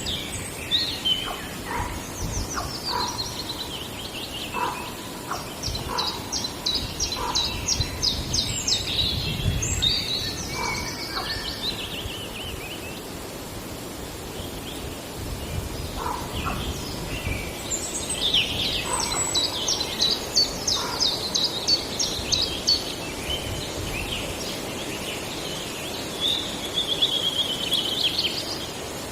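Several forest songbirds singing: repeated phrases of rapid trilled notes and falling slurred notes, with short, lower single notes in between and a faint low rumble underneath.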